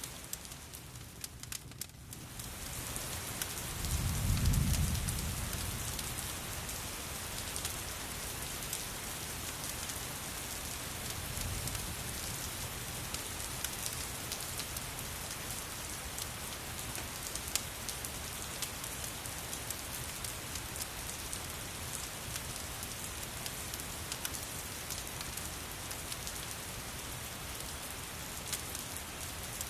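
Steady rain with scattered sharp crackles and ticks, as from a fireplace mixed in. The sound dips briefly near the start, and a low rumble swells about four seconds in.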